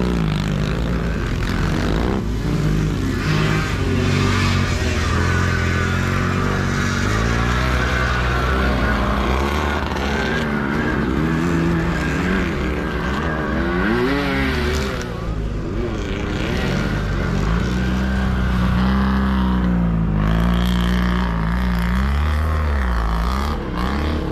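Several sidecar motocross motorcycles racing, their engines revving up and down as they go round the track, more than one at a time.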